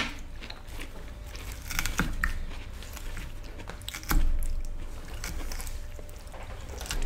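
Close-miked chewing of tortellini casserole and salad, with a few sharp clicks of forks against plates, the loudest about two and four seconds in.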